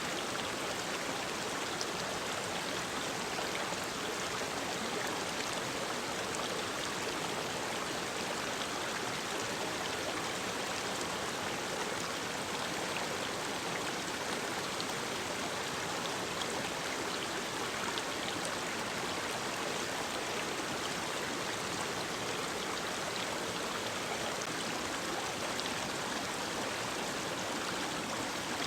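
Mountain stream rushing steadily over rocks, an even, continuous rush of water.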